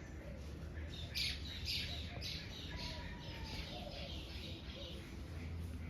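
A bird calling repeatedly, about two calls a second, starting about a second in and fading after a few seconds, over a steady low background noise.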